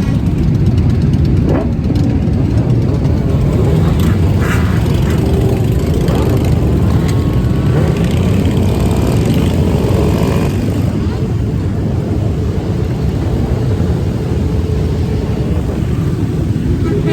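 Motorcycle engines running in a steady low drone while riding in a group, with road noise mixed in.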